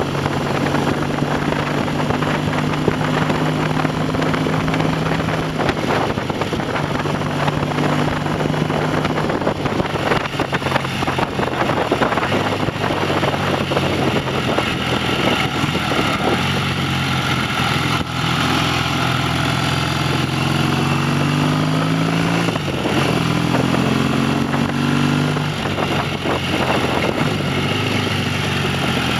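Classic motorcycle engine running on the road, with wind rushing over the microphone. It holds a steady note at first. Past the middle the revs rise and fall, stepping as it changes gear.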